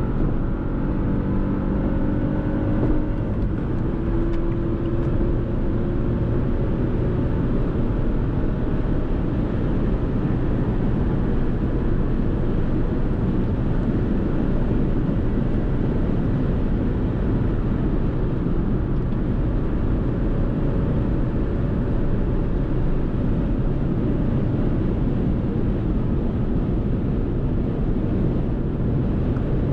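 Fiat Tipo's 1.0 turbo three-cylinder petrol engine on the move, its note rising through the first few seconds. After that, a steady rush of road and wind noise dominates.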